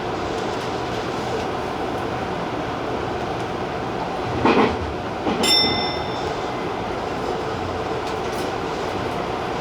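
Tobu TJ Liner electric train running steadily on the line, heard from the cab. A brief loud clatter about four and a half seconds in, then a short high ringing tone.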